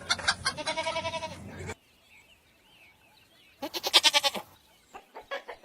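Goat bleating: a long, wavering bleat, then after a pause a second, pulsing bleat, with fainter short bleats near the end.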